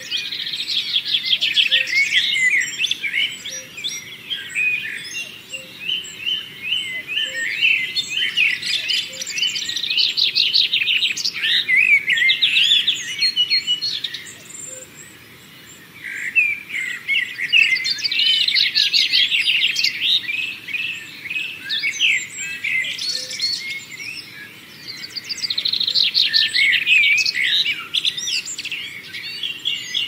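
Songbirds singing, a dense chorus of rapid warbling and chirping phrases that come in long bursts, with a brief lull about halfway through.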